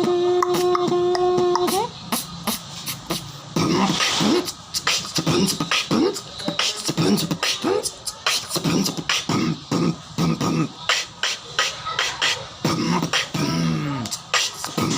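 Beatboxing: a held humming tone for about the first two seconds, then a fast rhythm of mouth-made clicks, snares and pitched vocal bass notes.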